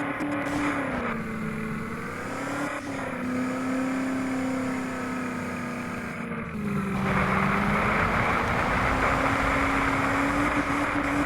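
Motor vehicle engine running hard under load, its pitch sagging twice and recovering. A louder rushing noise joins about seven seconds in.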